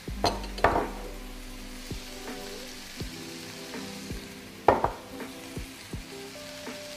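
Chicken and vegetables sizzling in a frying pan as they are stirred, with a few sharp knocks against the pan; the loudest come just after the start and about two-thirds of the way through.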